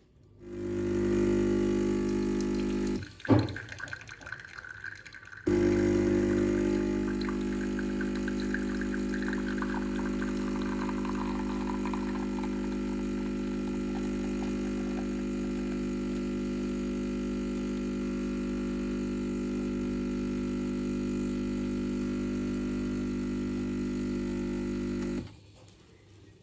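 Small electric motor of a kitchen appliance running with a steady hum. It stops after about two and a half seconds, a sharp knock follows, then it starts again and runs for about twenty seconds before cutting off suddenly.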